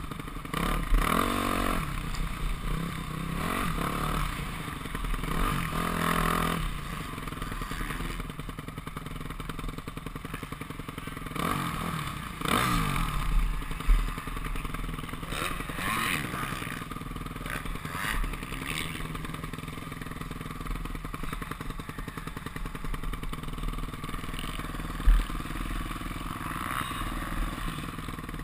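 Yamaha YZ250F four-stroke single-cylinder motocross bike engine revving up and falling back repeatedly as it is ridden round a track, heard from a helmet-mounted camera. A couple of sharp thumps, about 14 and 25 seconds in, stand out over the engine.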